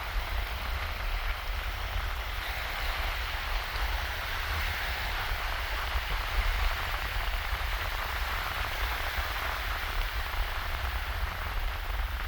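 Gentle shallow waves washing over a sandy beach: a steady, even fizzing wash with a low rumble underneath.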